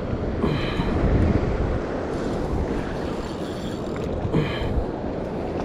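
A boat under way on the ocean, with steady wind and water noise and wind rumbling on the microphone. Three short pitched cries break in over it.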